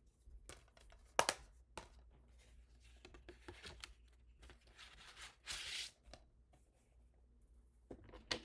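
Hands handling a plastic DVD case and its disc: scattered clicks and taps, one sharp click about a second in, and a short rustle about five and a half seconds in.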